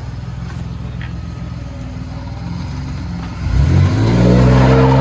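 Ford Ranger's 3.0 L V6, straight-piped but still running through its catalytic converters, pulsing steadily at low revs. About three and a half seconds in it is opened up hard and gets much louder, its pitch climbing as the revs rise.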